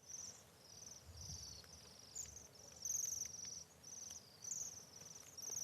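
A flock of Bohemian waxwings calling: faint, short, high trills repeated every half second or so, some overlapping.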